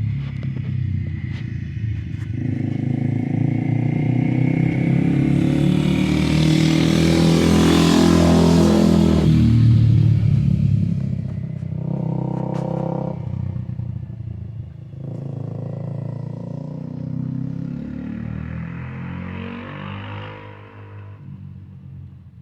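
Loud motorcycle engine going by. It builds to its loudest about eight to ten seconds in, its pitch rising and then dropping as it passes, then fades away, with further brief revs about twelve and twenty seconds in.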